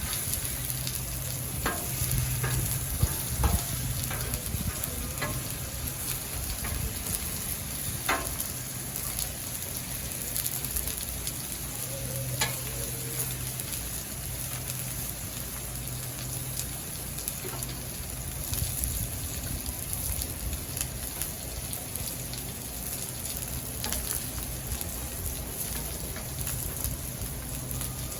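Steady sizzling on a hot Blackstone flat-top griddle, with scattered sharp clicks through it and a faint on-and-off low hum.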